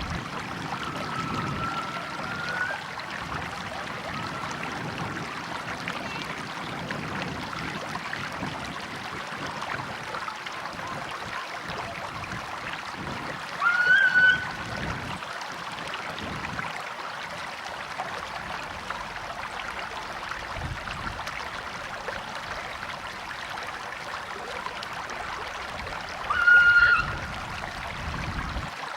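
River or stream water flowing steadily. Two short, high, pitched calls break through it, one near the middle and one near the end, louder than the water.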